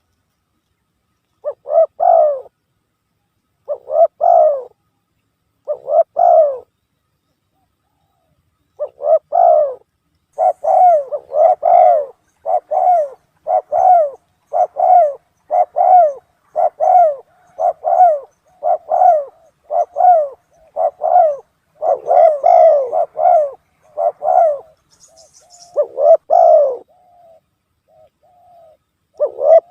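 Spotted dove cooing. Short coo phrases come about two seconds apart at first, then a quicker run of about one a second, with dead silence between them.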